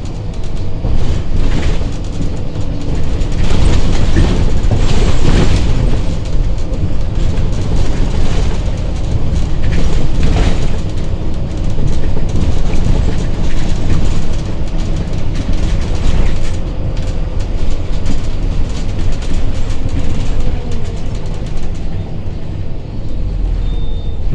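Scania CN94UB OmniCity city bus heard from inside while driving: a steady engine and drivetrain rumble with a faint whine, body rattles and knocks from the road. Near the end the whine drops as the bus slows.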